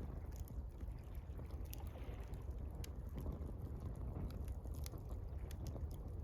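Gentle water lapping, a steady low wash, with a wood campfire crackling in small, sharp pops scattered across the stretch.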